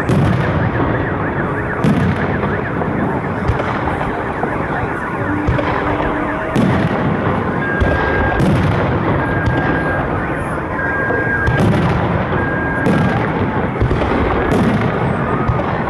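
Fireworks salute: a steady barrage of bangs and crackle. About halfway through, a short high beep sounds four times.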